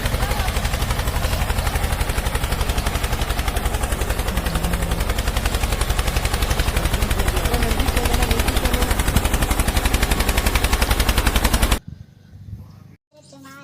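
Tractor engine running with a rapid, even chugging beat that stops abruptly about twelve seconds in.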